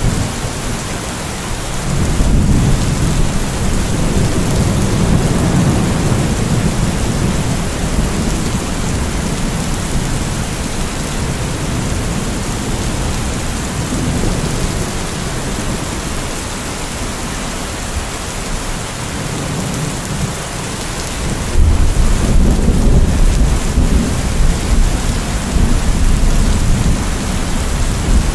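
Steady rain falling, with thunder rumbling low underneath. One rumble swells early and fades, and a louder one rolls in about three quarters of the way through.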